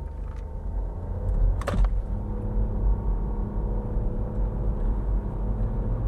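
Mini's engine pulling hard in a full-throttle acceleration run, heard from inside the cabin with road rumble, growing gradually louder. There is a short click about a second and a half in. The acceleration is sluggish, reaching only about 50.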